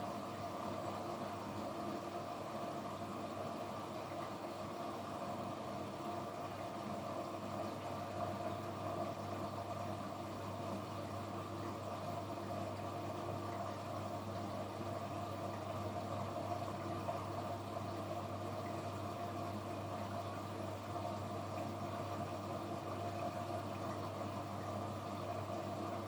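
Kunft washing machine running with a steady motor hum that does not change.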